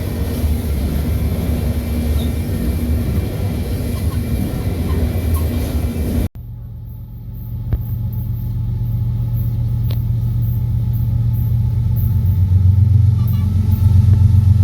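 Diesel train rumbling, loud and steady. It cuts off abruptly about six seconds in, and after that a steady low diesel engine hum builds in loudness.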